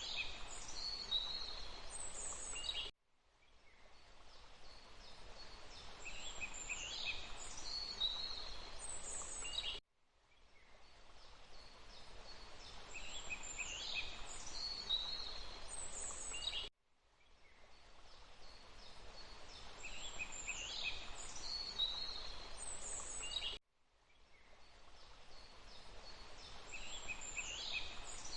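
Looped nature ambience of rushing water with songbirds calling, the same few seconds repeating about every seven seconds. Each repeat cuts out abruptly to a brief silence, then the water fades back in with the same bird phrases.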